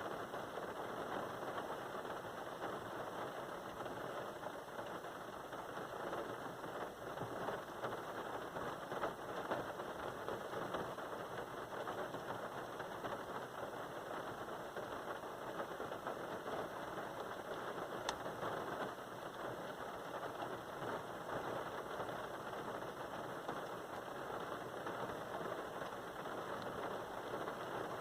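Rain falling steadily, a dense even patter of drops.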